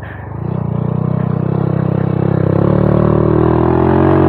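Honda Monkey 125's single-cylinder four-stroke engine pulling under load on a climb, its revs rising slowly and steadily while it sits in between gears.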